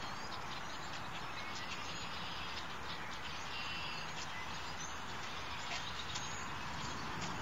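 Faint, scattered chirps of small birds over a steady outdoor background hiss.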